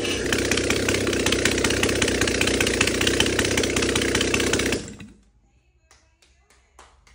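2.6-litre Rover intake-over-exhaust inline-six running steadily on a stand, freshly set intake valve clearances, then shut off suddenly about five seconds in.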